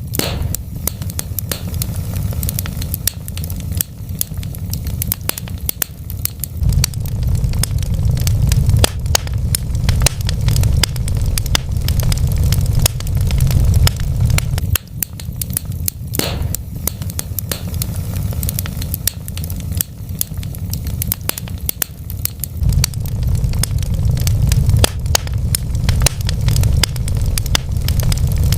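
Wood fire burning in a fireplace: a steady low rumble of flames with dense, irregular crackles and small pops from the burning logs. One louder pop comes about sixteen seconds in.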